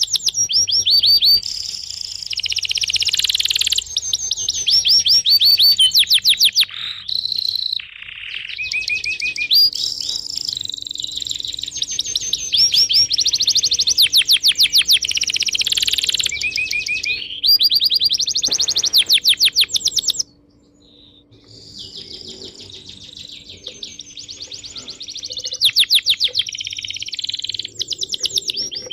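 A flock of small songbirds chirping and twittering together, with fast trills and rapid repeated notes overlapping almost without pause; the chorus drops off briefly about twenty seconds in, then picks up again.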